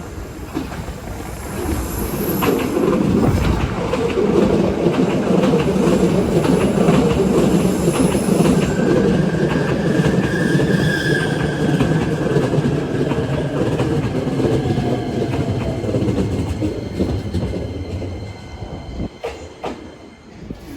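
Hankyu electric train passing close by: a rumble that builds over the first few seconds, holds with irregular wheel clatter and a brief high squeal about halfway through, then fades away near the end.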